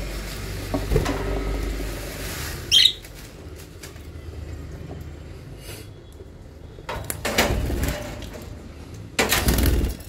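A lovebird's short, shrill chirp about three seconds in, with a knock before it and two loud rushing, rustling bursts near the end as things are handled at the wire cage.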